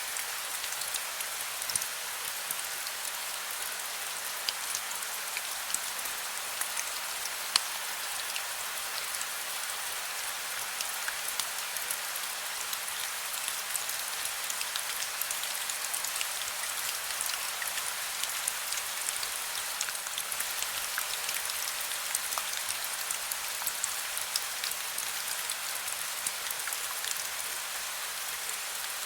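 Heavy rain falling steadily, a dense even hiss dotted with many sharp individual drop hits.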